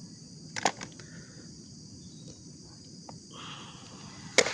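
Steady high-pitched chirring of insects, with a sharp click about half a second in and a louder click near the end.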